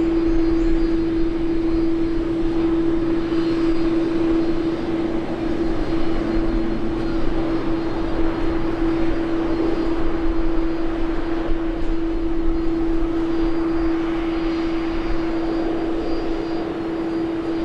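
Airliner engines running with a steady hum that holds one pitch, over a broad wash of engine noise.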